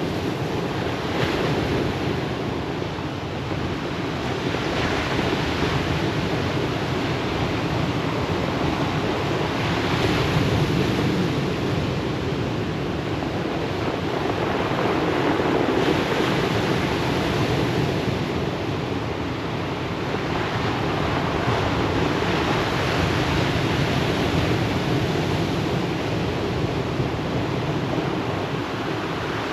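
Ocean surf breaking and washing on a pebble beach, a continuous rush that swells and eases with each wave every several seconds.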